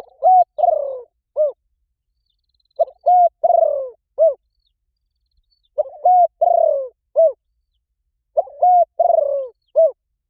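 Spotted dove cooing. Its phrase repeats four times, about every three seconds, each a short coo, a longer coo that falls away, and a short closing coo.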